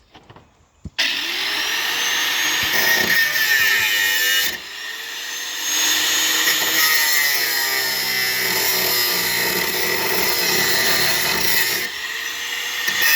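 An electric power tool running at speed in long runs. Its motor whine rises in pitch as it spins up at each start, under a loud harsh high hiss. There are brief dips about four and a half seconds in and near the end.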